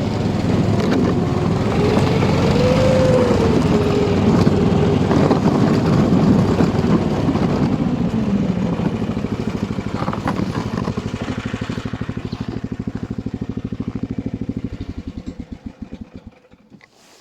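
Motorised snow tow's engine running, its pitch rising and falling in the first few seconds, then slowing to idle with distinct firing beats and shutting off about a second before the end.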